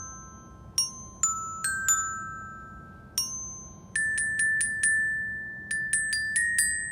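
Glockenspiel struck with a single mallet, playing a short melody of bright, ringing metal-bar notes. A few spaced notes come first, then from about four seconds in a quick run of repeated notes on one bar, ending on a higher one. The instrument is lying flat, so the bars ring out freely.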